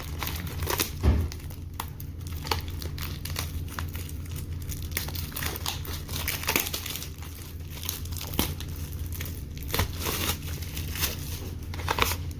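Plastic wrapping being torn and crinkled off a sealed trading-card booster box, with irregular crackling throughout and a louder thump about a second in.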